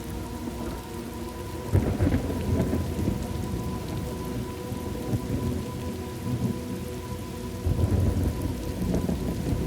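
Steady rain with thunder rumbling low, swelling in two rolls: one about two seconds in and another near the end.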